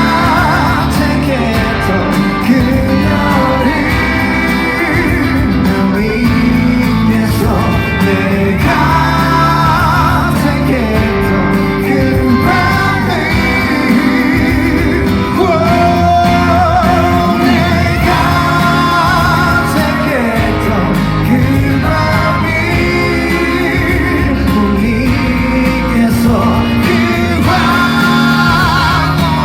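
Live concert music: a band playing an upbeat pop-rock song, with singing over it.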